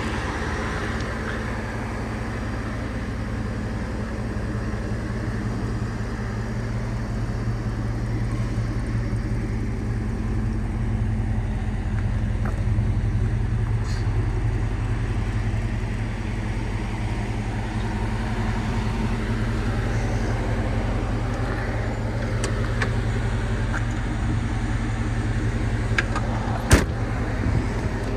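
A 1986 Land Rover's engine idling steadily, with one sharp click near the end.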